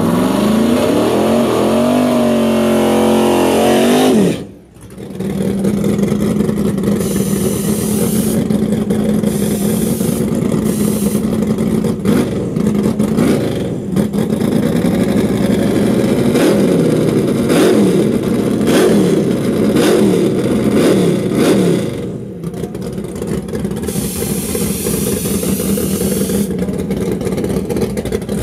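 Nitrous LS small-block V8 in a Chevrolet Monte Carlo drag car, revving up and down again and again. The sound drops out briefly about four seconds in, and near the end the engine settles to a steadier, quieter run.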